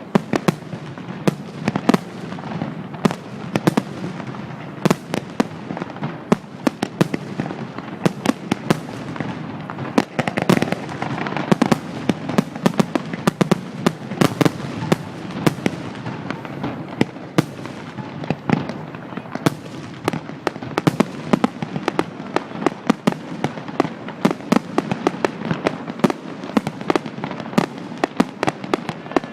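Aerial fireworks display: a dense, continuous barrage of sharp bangs, several a second, over steady crackling.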